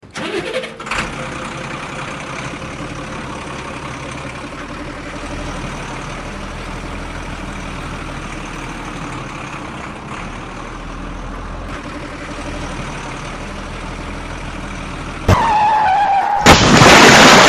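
A truck engine running steadily at a low hum. About fifteen seconds in comes a sharp click and a short tone, then a loud crash-like burst near the end.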